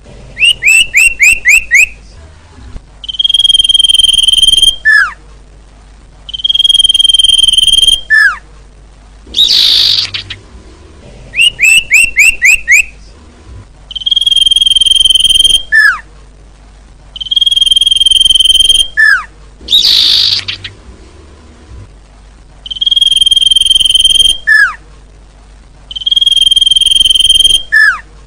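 Looped bird-lure recording of small songbird calls: a held whistle about a second long, a short falling note, a quick run of about five rising chirps and a harsh buzzy call, repeating over and over every few seconds.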